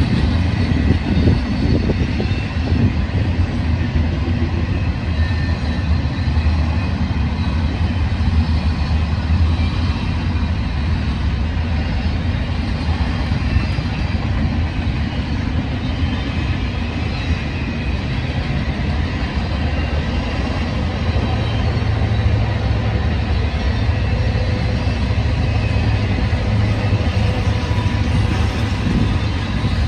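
Union Pacific double-stack container train rolling by: a steady rumble of the cars' wheels on the rails.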